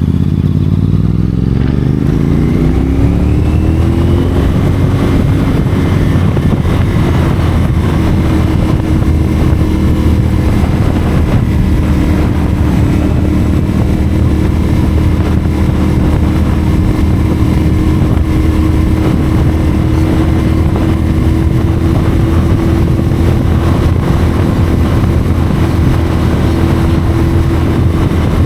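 CFMoto 450SR parallel-twin engine through a Yoshimura AT2 slip-on exhaust, pulling up through the revs over the first few seconds, then held at a steady cruise.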